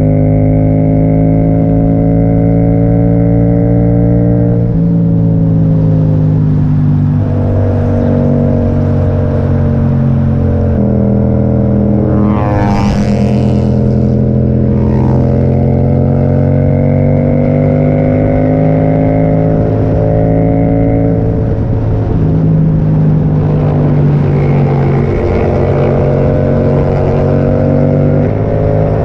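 Yamaha MT-07's parallel-twin engine through an aftermarket Akrapovic exhaust while riding. The note holds steady, then steps down and back up in pitch several times.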